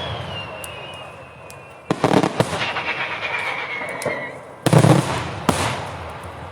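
Daytime fireworks: clusters of loud bangs with crackle, about two seconds in and again near the end, with long whistles that slowly fall in pitch ringing between the blasts.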